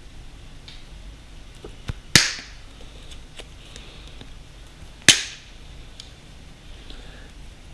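Two sharp snaps, about three seconds apart, each with a brief ringing tail: plastic zip ties being snipped through with cutters.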